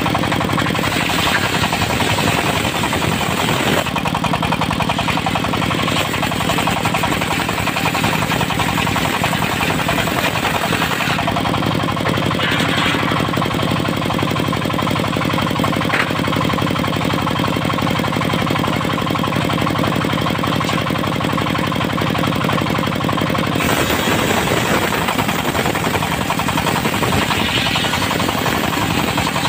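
Diesel engine of a mobile circular sawmill running steadily with a rapid knocking beat. A hissing saw noise on top grows and fades a few times.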